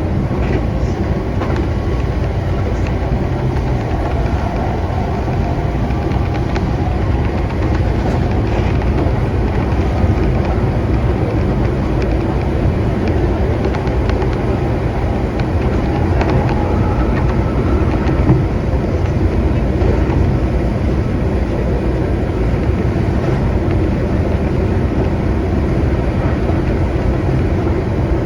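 Keihan electric train running along the track, heard from inside the car: a steady rumble of wheels and running gear.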